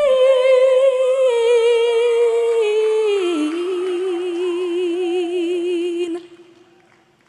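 A woman singing one long held note, over softer backing voices, stepping down in pitch about three seconds in and settling into a wide vibrato; it cuts off suddenly about six seconds in.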